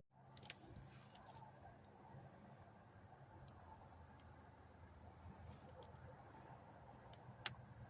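Faint insect chirping: a steady, evenly pulsing high trill, with one soft click near the end.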